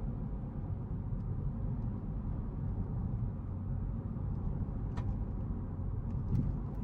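2024 Honda Civic Sport driving over a rough alley road: a steady low rumble of tyres and engine, with a sharp click about five seconds in.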